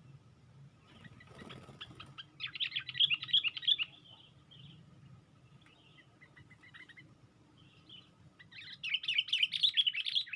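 Sooty-headed bulbul (kutilang) calling in two bursts of rapid chattering notes, one about two and a half seconds in and one near the end, with softer scattered notes between them over a faint low hum.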